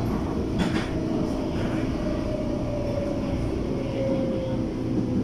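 CAF-built MTR Tung Chung Line electric train running along the track: a steady rumble of wheels on rails, with a motor whine that slowly falls in pitch.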